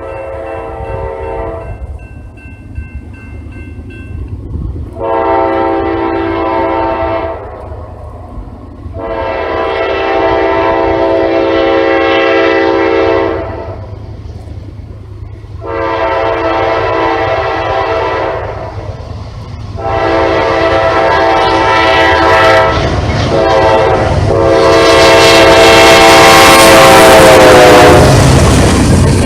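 GE Dash 8 locomotive's air horn sounding a series of long blasts as the train approaches, the last blast falling in pitch as the locomotive passes. Loud engine and rail noise of the passing train follows near the end.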